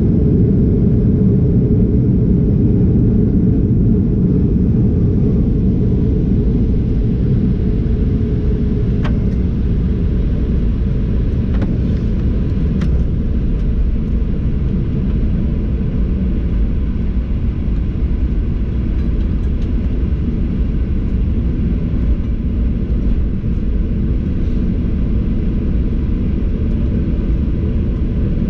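Cabin noise of a Boeing 737-800 with CFM56-7B engines, heard inside during landing rollout: a loud, low rumble of engines, airflow and runway. It is heaviest for the first seven or eight seconds, then eases a little as the aircraft slows. A few faint clicks come around the middle.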